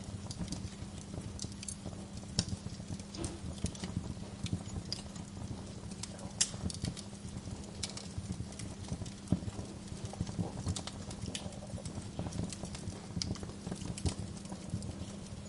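Wood fire crackling: irregular sharp pops and snaps, a few louder than the rest, over a steady low hum.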